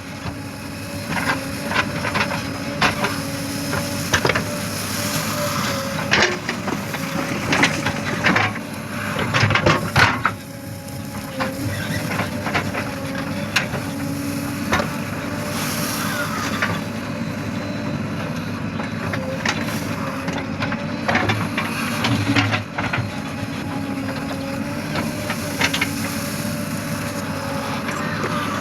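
Diesel engine of a backhoe loader running steadily. Over it come repeated knocks and crunching thuds, dense in the first ten seconds and scattered after, typical of earth being scooped and dumped.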